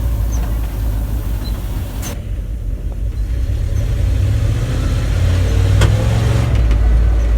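Old water truck's carbureted engine running as the truck is driven, a low rumble that builds up somewhat past the middle. There is a single knock about six seconds in.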